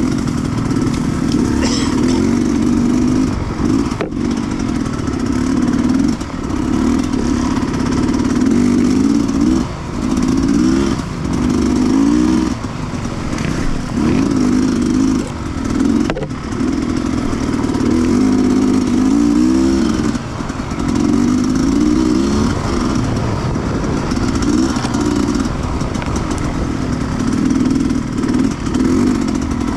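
Sherco 300cc two-stroke enduro motorcycle engine ridden off-road, its pitch repeatedly rising and falling as the throttle opens and closes, with short drops in level. There are a couple of sharp knocks, about four seconds in and again midway.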